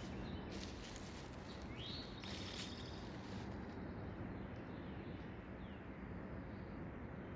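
Birds chirping outdoors, with one rising call about two seconds in and a few fainter short calls later, over a steady background hiss.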